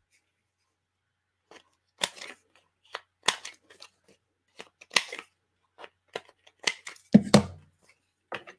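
Scissors snipping paper in a run of short, irregular cuts, rounding off the corners of a paper piece, with two heavier knocks a little after seven seconds in.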